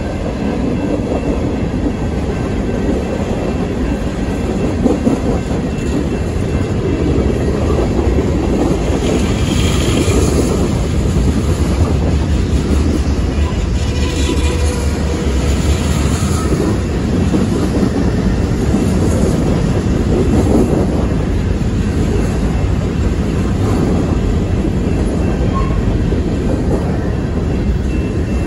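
Freight train cars rolling past close by: a steady, loud rumble of steel wheels on rail, with two brief spells of higher-pitched wheel noise about ten and fifteen seconds in.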